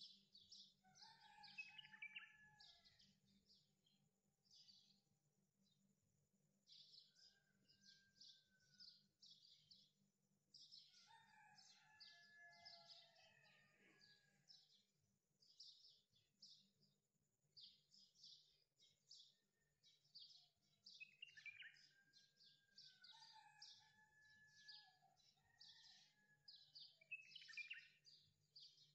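Faint birds chirping and twittering rapidly, with a longer warbling song phrase near the start, in the middle and near the end, over a low steady hum.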